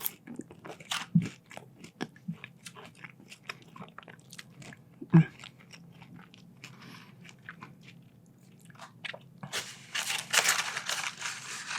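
Close-miked crunching and chewing of French fries: many quick crisp bites and mouth clicks, growing into a denser stretch of crunching noise near the end.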